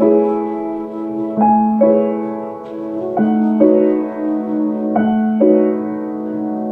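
Background piano music: slow sustained chords over a steady low note, a new chord struck about every second and a half to two seconds.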